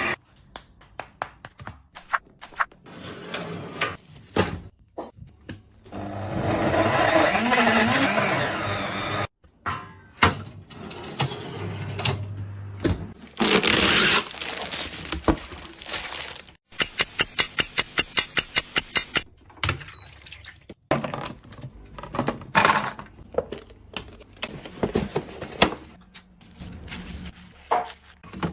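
Kitchen food-prep sounds: scattered knocks and clatter of utensils and containers, two longer stretches of rushing noise, and a quick even run of about five taps a second lasting a couple of seconds.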